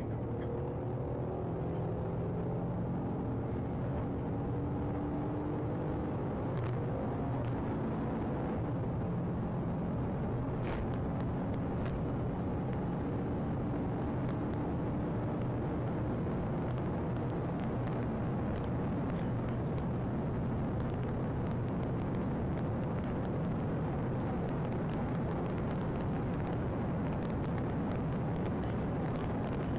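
Car engine and road noise from a vehicle on the move, steady throughout, with the engine note falling in pitch over the first few seconds.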